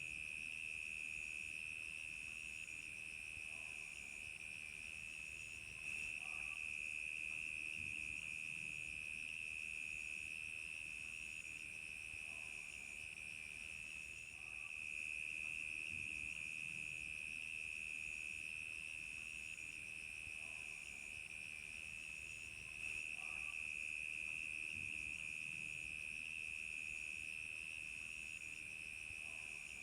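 Crickets chirping in a continuous night chorus: a steady, shrill trill, with a higher chirp pulsing about once a second above it.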